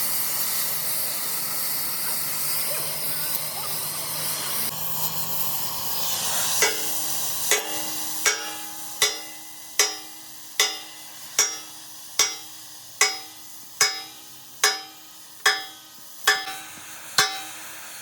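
Steady hissing, then a hammer striking steel in a regular rhythm, about one blow every 0.8 seconds. Each blow rings out and fades.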